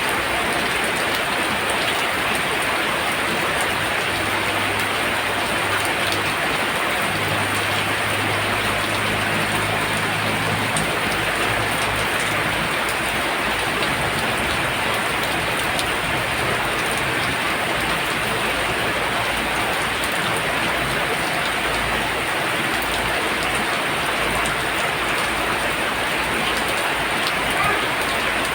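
Heavy rain pouring down, a dense, even hiss of a downpour. From about four seconds in until about twelve seconds, a low droning hum sounds under the rain.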